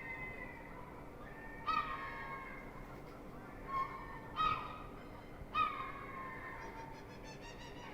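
Herring gulls calling: four short, sharp calls, each dropping slightly in pitch and a second or two apart, with fainter calls in between, over a steady background hiss.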